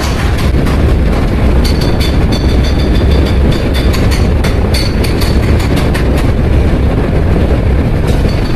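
Workshop machinery running steadily with a deep low rumble and irregular clattering clicks, joined by a faint high whine about two seconds in.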